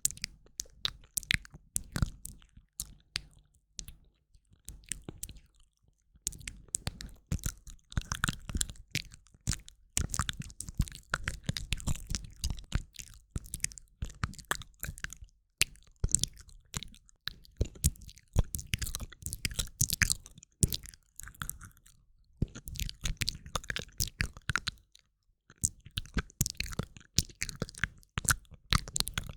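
ASMR mouth sounds close to the microphone: rapid clicks and smacks of tongue and lips, in dense clusters broken by a few short pauses.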